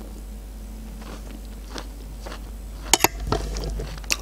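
Close-miked chewing of a mouthful of canned sweet corn, soft and quiet at first. About three seconds in, a metal spoon clinks sharply against the steel tray, and the chewing gets louder.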